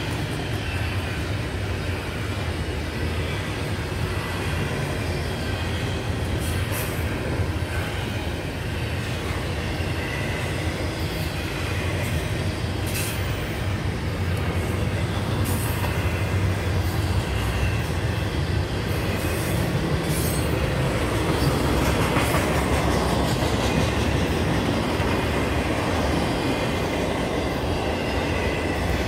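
A double-stack container train of well cars rolls steadily past: a continuous rumble of steel wheels on rail, with a few sharp clicks and faint wheel squeal at times.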